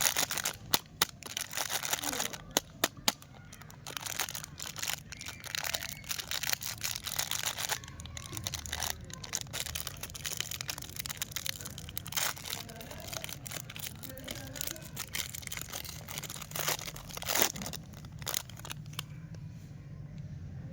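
Plastic candy wrappers crinkling and being torn open, with many sharp crackles and clicks and a few louder snaps.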